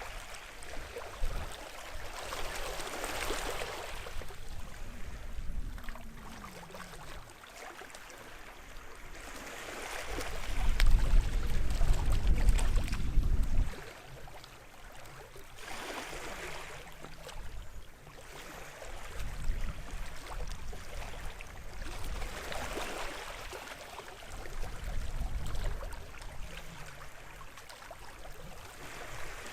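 Small waves washing onto the shore, each wash swelling and fading every few seconds. A louder low rumble lasts about three seconds near the middle and stops suddenly.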